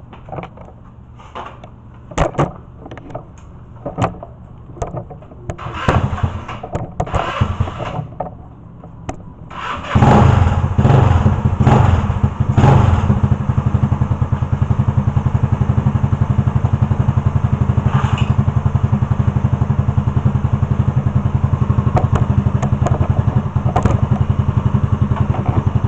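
A few scattered knocks and thumps, then about ten seconds in a vehicle engine starts up loudly and settles into a steady idle with a fast, even pulse.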